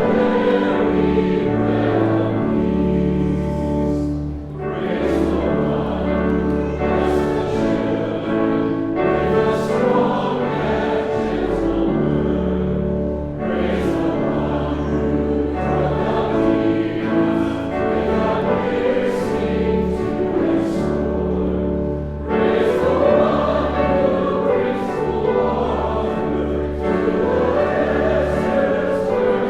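Church congregation singing a hymn with instrumental accompaniment, in long sustained phrases with short breaks between lines.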